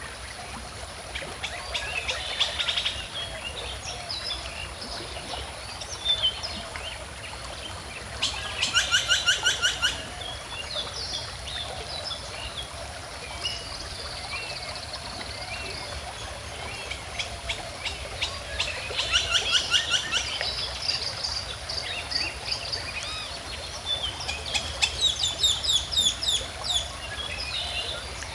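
Songbirds singing over a steadily flowing stream. One bird gives a fast trill three times, each lasting a second or two, between scattered chirps from others.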